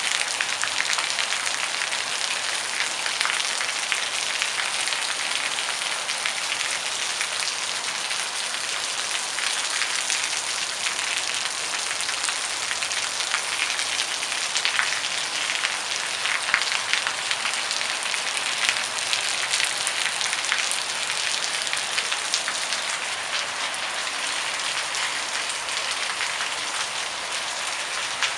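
Steady rain falling: a dense, even patter of many individual drops.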